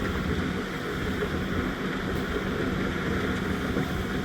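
Wind rumbling steadily on the microphone, with a steady low hum underneath.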